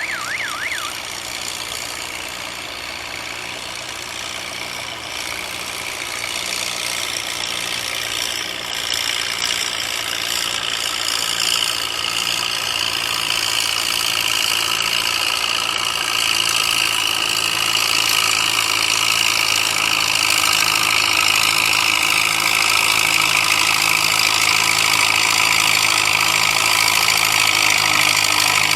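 Gas pulling tractor's engine running hard under load as it pulls the weighted sled, getting steadily louder through the run.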